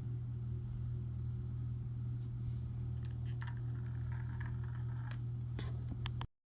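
A steady low hum with a few faint light clicks and taps, cutting off abruptly about six seconds in.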